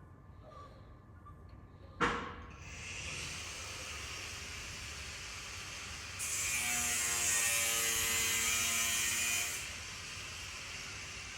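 A sharp click, then a noisy electric appliance motor starts running steadily. It runs louder for about three and a half seconds in the middle, then drops back to its earlier level.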